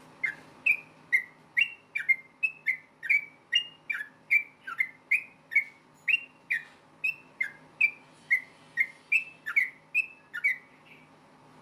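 Yellow-vented bulbul singing a rapid run of short whistled notes, about two to three a second, each sliding down in pitch.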